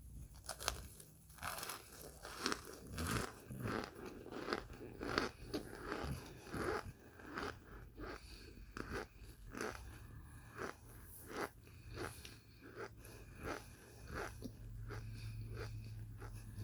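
Crunching and chewing of microwaved Kingsford cornstarch chunks close to the microphone, a steady run of crisp crunches about twice a second.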